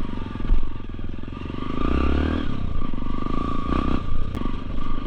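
Motorcycle engine running under throttle while riding over a muddy off-road track, with a few knocks from the bike over rough ground.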